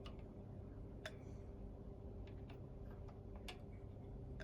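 A few light, sharp clicks and taps, about five spread over four seconds, from the small metal parts of a toy steam engine being handled while its bearings are oiled, over a faint steady hum.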